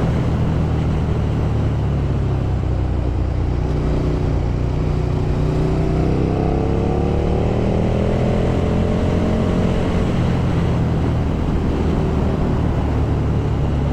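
Motorcycle engine running at road speed, heard from on the bike, with steady wind and road noise. The engine note rises around the middle, then eases back.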